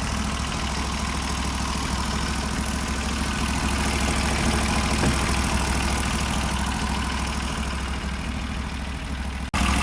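Norwood portable bandsaw mill's engine running steadily at an even idle. The sound cuts off abruptly for an instant near the end and comes straight back.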